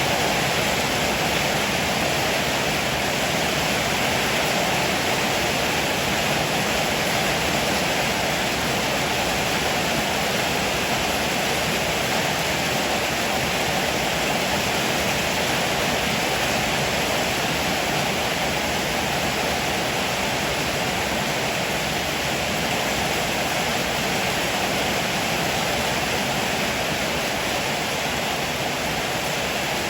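Heavy rain falling steadily, a dense, even hiss with no thunderclaps.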